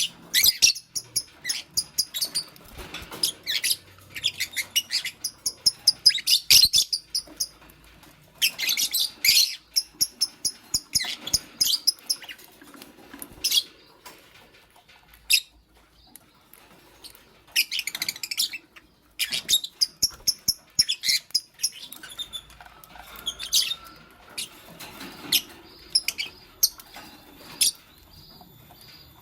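Fischer's lovebirds chirping: rapid runs of shrill, high-pitched chirps in bursts of a second or two, separated by short pauses.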